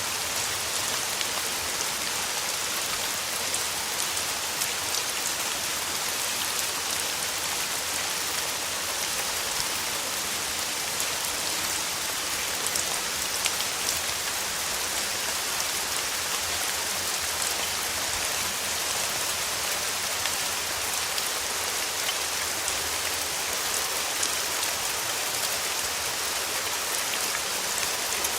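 Steady summer rain falling: a dense, even hiss flecked with the light patter of individual drops.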